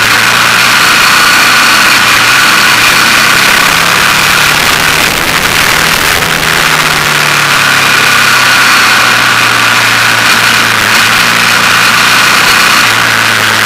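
KTM motorcycle engine running steadily under a dense rushing noise. The engine eases off briefly about five seconds in, then carries on at a slightly higher pitch.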